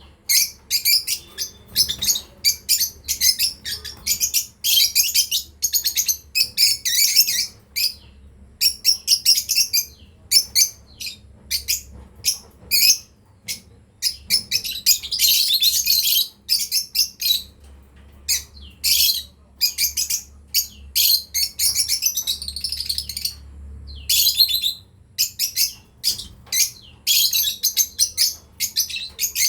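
Lovebirds chirping: a rapid, busy string of short, high-pitched chirps with brief pauses, running together more densely around the middle and again near the end.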